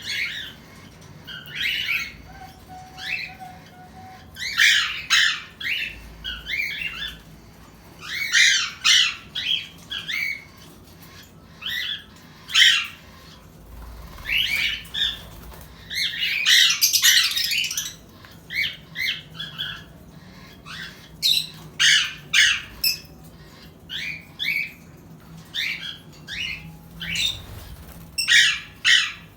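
Pet parrots calling over and over: short, harsh calls in quick clusters with brief pauses between them.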